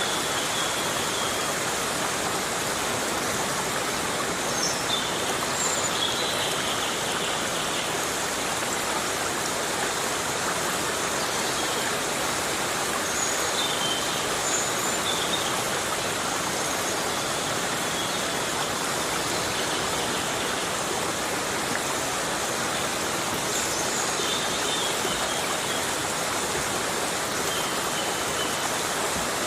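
Heavy rain falling steadily in a tropical forest, an even hiss of dense rainfall, with a few short, faint high chirps scattered through it.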